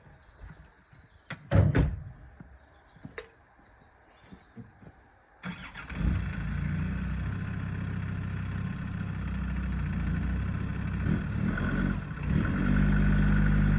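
A few knocks and clicks, then about five seconds in the Land Rover Discovery 2's Td5 five-cylinder diesel starts and settles into a steady run, getting louder near the end.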